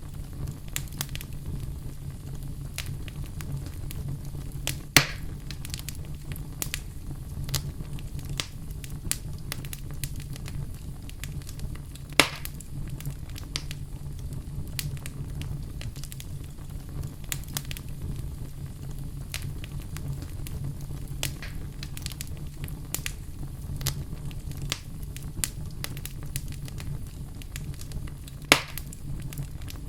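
Fire burning in a fireplace: a steady low rumble of flames with constant small crackles, and three loud sharp pops from the burning fuel, about five seconds in, about twelve seconds in, and near the end.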